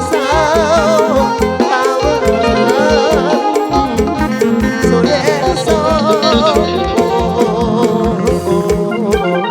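Live mor lam band music: an instrumental passage with a wavering, vibrato-laden lead melody over a steady drum and bass beat.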